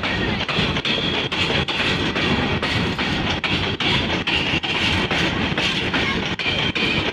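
Empty steel hopper wagons of a goods train rolling slowly past, their wheels clicking over the rail joints in a steady clickety-clack, about two to three clicks a second, over a continuous rumble.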